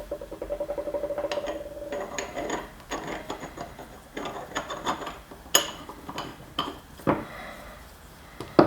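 Steel tooling parts handled and fitted together by hand: a rapid ticking, rubbing sound for about two seconds, then scattered metal clinks and knocks, with a sharp knock near the end.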